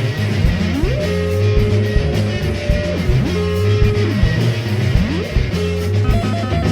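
Psychedelic rock band playing an instrumental passage live: electric guitar holding notes that slide up and down in pitch over a steady bass line and drums.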